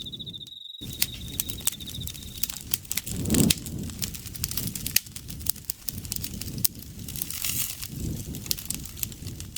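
Campfire crackling, with frequent sharp pops and snaps over the low rush of the flames. A pulsing, high insect trill runs through the first couple of seconds, then stops.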